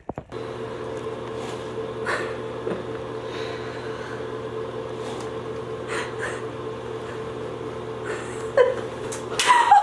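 A steady electrical or mechanical hum, with a low drone and a higher tone above it, that starts abruptly. Near the end come a couple of short high, sliding voice-like sounds.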